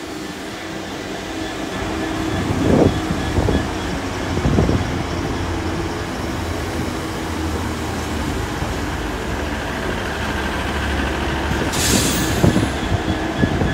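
A Class 66 diesel freight train rolling slowly past: a steady diesel drone and wagon rumble that grows heavier about halfway through, with two sharp knocks in the first five seconds and a brief hiss near the end.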